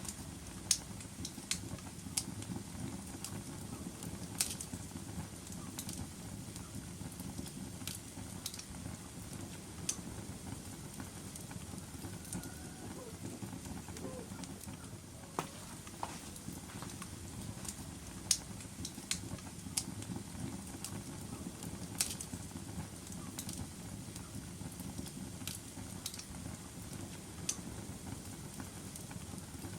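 Logs burning in a fireplace: a steady low rush of flames with irregular sharp crackles and pops, a handful of them louder snaps.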